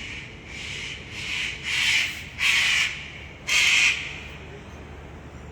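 Sulphur-crested cockatoo screeching: a series of about six harsh calls that grow louder, the last two the loudest.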